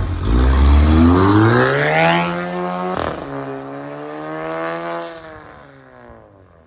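Volkswagen Golf MK8 1.5 eTSI four-cylinder turbo petrol engine through an aftermarket downpipe and Varex valved exhaust, accelerating hard with the revs climbing steeply. About three seconds in, a sharp crack comes as the revs drop at an upshift. The engine then pulls again and fades away near the end.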